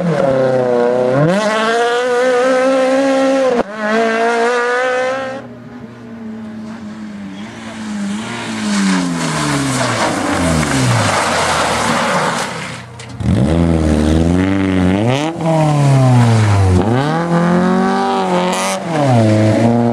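Rally car engines at full throttle, revving up and dropping back again and again through gear changes, with a car passing and falling in pitch about six seconds in. The sound changes abruptly twice, as one car's run gives way to the next.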